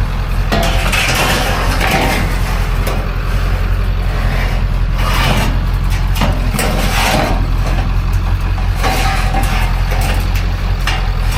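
A vehicle engine idling steadily, with several irregular bursts of scraping and clattering over it.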